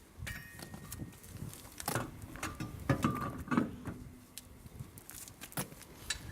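Scattered metallic clinks, knocks and clicks of tools and parts being handled during a car wheel change, a couple of them ringing briefly.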